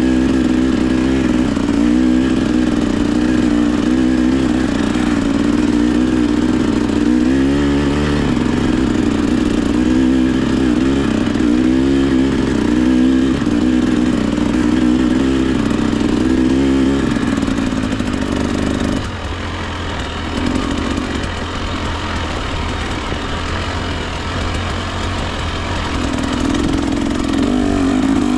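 Husqvarna TE 300 two-stroke dirt bike engine revving up and down over and over under changing throttle. About two-thirds of the way through it drops back to a quieter low-rev run, then picks up again near the end.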